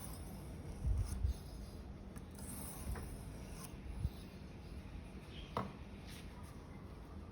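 A Victorinox paring knife blade stroked across a 3000-grit whetstone: soft, faint rubbing strokes, with a couple of low thumps about a second in.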